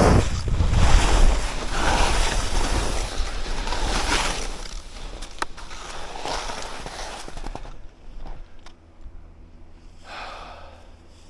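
Skis scraping and carving through snow in a run of turns, one swell of noise per turn, with wind rumbling on the microphone. It goes much quieter about eight seconds in, then one more short scrape near the end.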